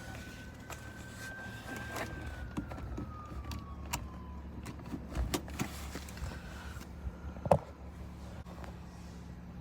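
Car cabin sound with the engine running: a steady low hum, a faint whine that holds and then slowly falls away about four seconds in, and scattered clicks and knocks.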